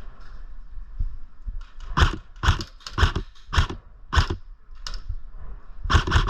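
A series of short, sharp knocks or crunches, about two a second for a couple of seconds, then one more and a last closely spaced pair near the end.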